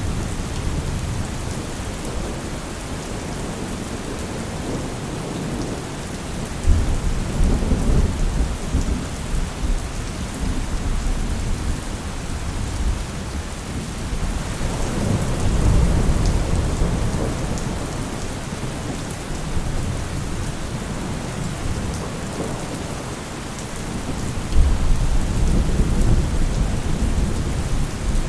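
Steady heavy rain with rolls of thunder rumbling low three times: one starts suddenly about a quarter of the way in, one swells in the middle, and one breaks suddenly near the end.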